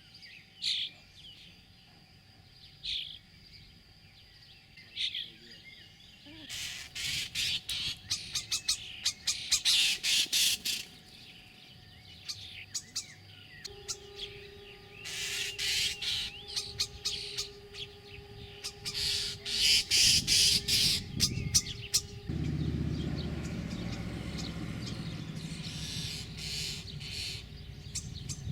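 Common starling nestlings begging to be fed: a few single chirps, then several long bursts of rapid, raspy chirping.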